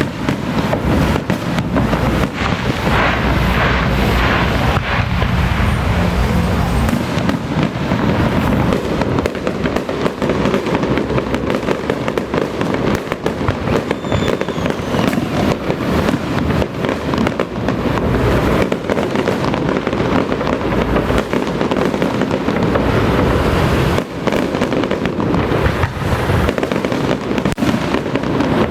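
Firecrackers going off in a long, dense, continuous crackle of rapid bangs.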